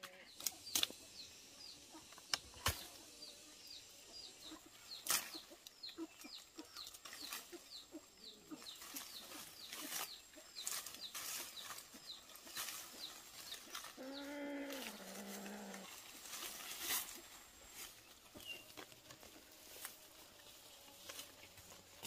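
Birds calling: quick high peeps about two a second for the first several seconds, then one longer, lower call midway, with sharp clicks scattered throughout.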